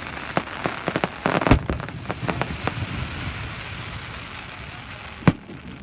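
Fireworks going off: a quick run of sharp bangs and crackles in the first couple of seconds, then one loud bang near the end.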